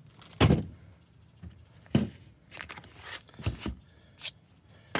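Food-prep handling noises: a handful of short rustles and knocks, the loudest about half a second in.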